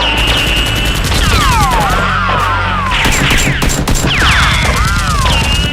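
Rapid, continuous gunfire sound effects of a film gunfight, dense volleys of shots throughout. Falling whistling sweeps and wavering tones recur about every two seconds over a low music bed.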